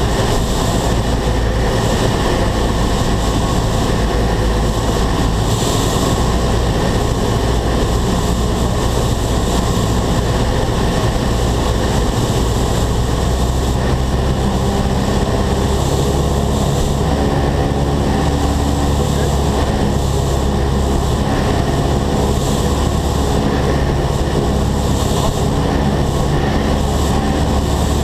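Single-engine light airplane's piston engine and propeller droning steadily in flight, with a low even hum and a slight shift in its tone about halfway through.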